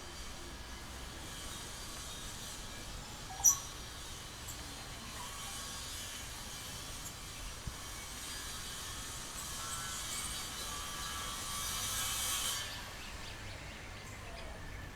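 Outdoor aviary ambience: a steady hiss with scattered faint bird calls and one short, sharp, high bird call about three and a half seconds in. A high buzzing hiss swells from about two-thirds through and cuts off suddenly.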